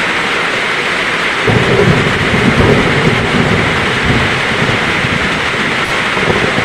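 Heavy rain falling steadily, with a roll of thunder that starts about a second and a half in, swells, and fades over the next few seconds.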